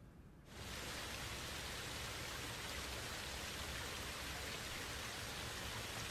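Steady rain ambience, cutting in suddenly about half a second in after near silence.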